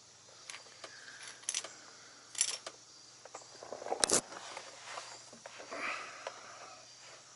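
Scattered light metallic clicks and clinks of tools and small parts being handled, with one sharper knock about four seconds in.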